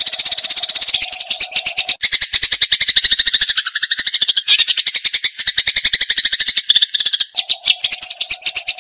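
Eurasian tree sparrow in fighting mode giving a long, unbroken rapid chatter of many sharp notes a second. Through the middle stretch the notes dip lower in pitch before rising back.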